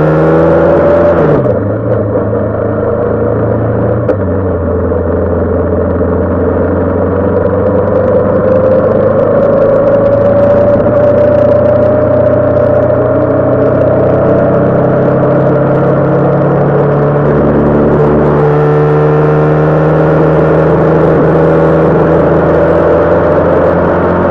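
Honda CB500 motorcycle engine under way, with a gear change about a second and a half in. The revs then climb slowly for many seconds, hold steady, and change again about three-quarters of the way through.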